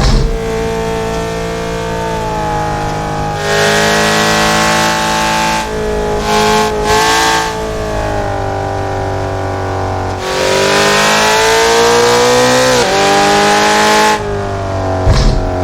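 Car engine heard onboard on a fast lap, pulling hard with its pitch rising and falling through gear changes and lifts. It gets louder on three full-throttle runs, the longest from about ten to fourteen seconds in, and eases off between them.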